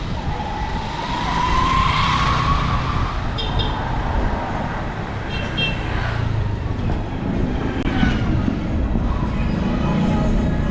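City road traffic: cars and larger vehicles such as buses and trucks running and passing, a steady low rumble. A wavering, slightly rising tone sounds over it in the first three seconds.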